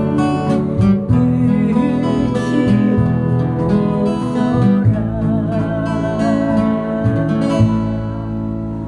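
Acoustic guitar strummed as song accompaniment, with a held melody line wavering in pitch over it in the middle; the music eases down near the end.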